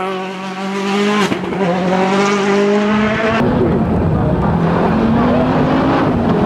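Rally car engine at high revs, holding a steady pitch; about three and a half seconds in it cuts to another car, its engine pitch rising and falling over heavier noise.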